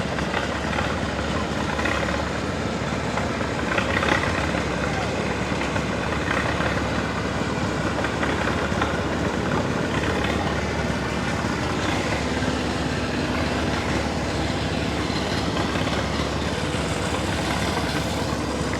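Steady engine running, with voices talking in the background.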